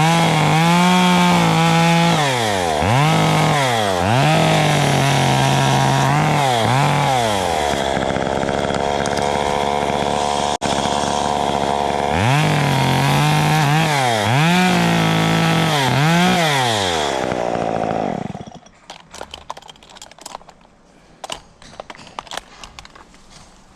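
Two-stroke chainsaw running loud, its engine pitch dipping and recovering again and again as it cuts or is throttled, with a steadier stretch in the middle. The engine then stops, and faint crackling and rustling follows.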